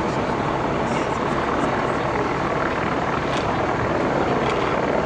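Helicopter circling overhead: a steady, loud rotor drone.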